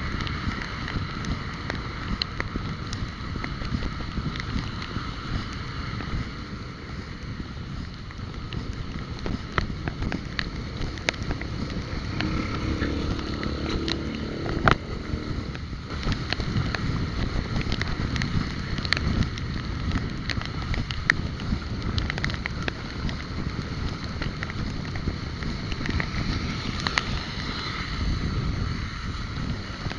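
Wind buffeting the microphone over a steady low road and traffic rumble while riding through the city.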